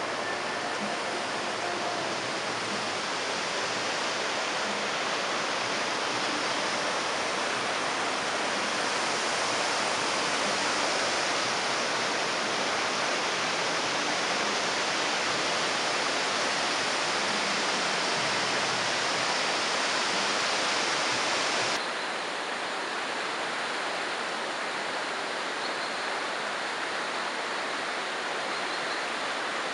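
Steady rushing water, like a river or waterfall. About three quarters of the way through it changes abruptly, becoming slightly quieter and duller.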